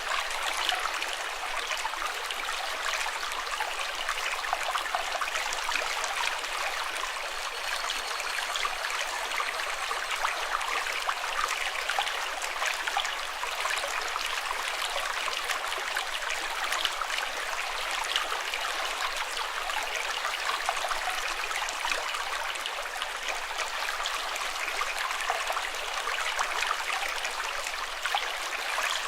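Running water: a stream babbling steadily, with a dense patter of small splashes.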